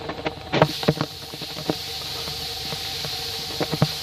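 Air hissing steadily out of a leak in a newly fitted aftermarket exhaust front pipe, pressurised by a vacuum cleaner blowing into the tailpipe: the pipe is not sealed. The hiss sets in about half a second in, under a faint motor hum, with a few knocks from handling.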